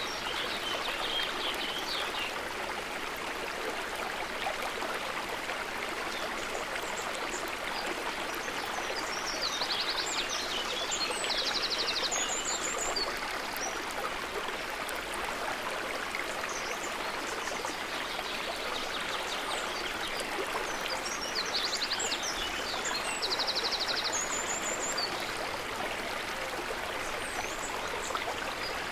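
River water running steadily, with small birds chirping and trilling briefly about ten seconds in and again about twenty seconds in.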